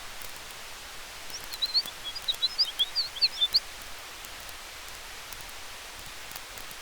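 Campfire and wind ambience: a steady hiss with faint scattered crackles of burning wood. About one and a half seconds in comes a two-second run of quick, high chirps from a small bird, the loudest sound here.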